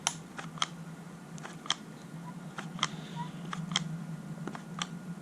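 Hand press tool from a Dorman fuel line repair kit pressing a barbed straight fitting into nylon fuel line, giving about a dozen sharp clicks at irregular intervals, often in close pairs, as the fitting is worked into place.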